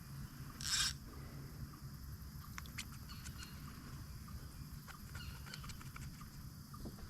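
A short splash of water on the surface about a second in, then a few light clicks and taps of tackle or hull, over a low steady rumble.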